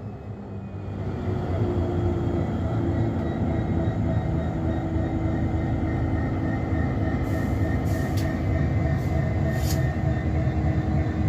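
Diesel locomotive engine just started, building up over the first second or so and then running at a steady, low, rumbling idle with a steady tone over it. A few short hisses come in near the end.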